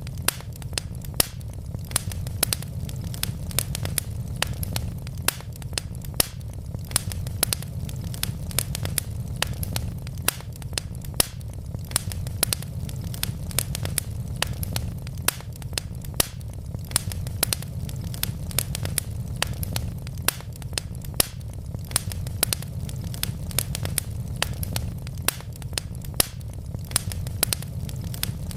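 Wood logs burning in a fireplace, crackling: frequent irregular sharp pops and snaps over a steady low rumble of the fire.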